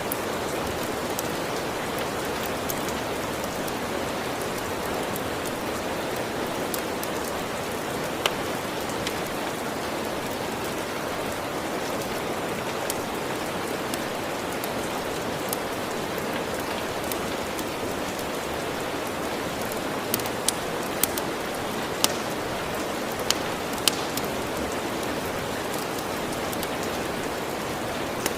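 Steady rain falling, with a few sharp pops from a crackling wood fire: one about eight seconds in and a handful close together about two-thirds of the way through.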